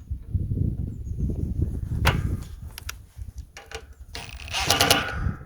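Work noise on a sheet-metal feeder drum: rumbling handling, a sharp click about two seconds in, and a louder metallic rattle near the end.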